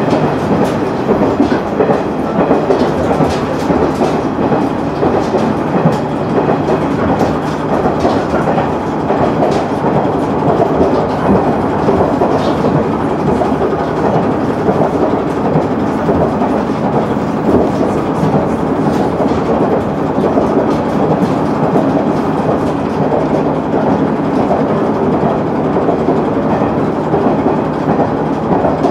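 KiHa 100 diesel railcar running along the line, heard from inside the passenger cabin: a steady rumble of engine and wheels on rail, with faint clicks as the wheels cross rail joints.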